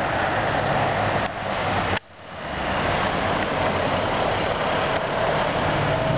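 A motor vehicle's engine running with road noise. The sound drops away abruptly about two seconds in and swells back up.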